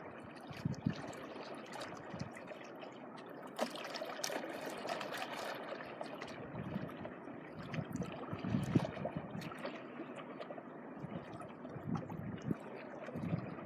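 Small sea waves washing and trickling over the shore, rising and falling in irregular swells, with occasional low rumbles.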